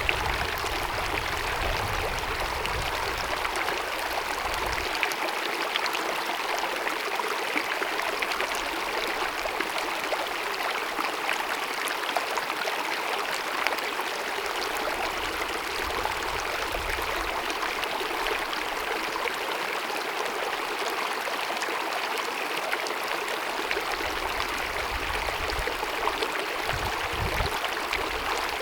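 Small glacier-fed mountain meadow stream cascading over rocks: a steady rush of running water. A low rumble comes and goes in the first few seconds and again near the end.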